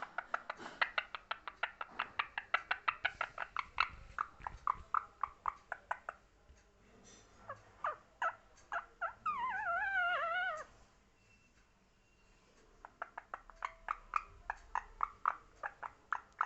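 Pet parrot calling in rapid runs of short, sharp calls, several a second. Midway it gives one longer wavering, warbling call before another fast run near the end.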